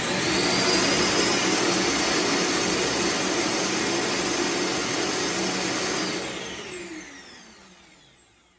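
iRobot Roomba Combo j7+ self-emptying home base's suction motor running to empty the robot's dustbin: a loud, steady rush of air. About six seconds in it winds down with a falling whine and fades out.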